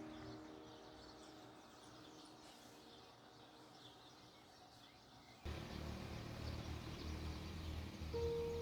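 Faint bird chirps over the dying tail of a piano chord. About halfway through, a low steady rumble comes in suddenly, and a piano note sounds near the end.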